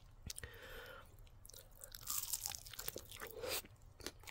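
Biting into and chewing a crispy, barbecue-sauced chicken wing, a faint crunching that grows louder in the second half.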